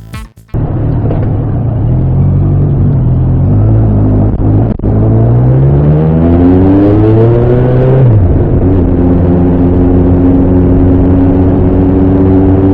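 Bimota SB3's Suzuki GS1000 inline-four engine and exhaust on the move: steady at first, then the revs climb for about three seconds, drop sharply at a gear change, and settle into a steady cruise.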